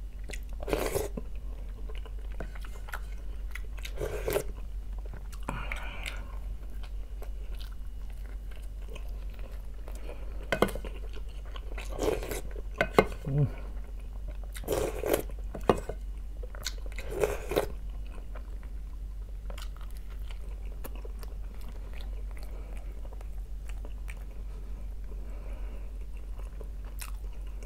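Close-miked chewing and mouth sounds of a man eating fish soup and bread, with a dozen or so short, louder smacks and crunches scattered through, over a low steady hum.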